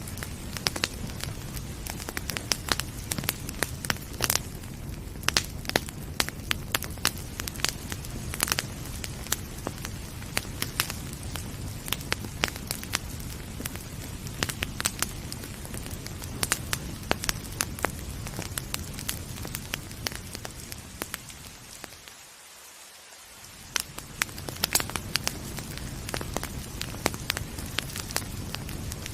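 Wood fire crackling with frequent sharp pops over a steady hiss of rain. About three-quarters of the way through, the sound dips and the crackling stops for a couple of seconds, then comes back.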